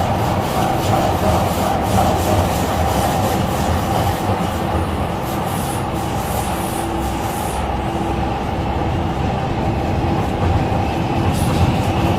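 MTR Tseung Kwan O line C-Train running at speed between stations, heard from on board: a steady, loud rumble of wheels on rail with a continuous hum, and brief high hissing squeals about midway and near the end.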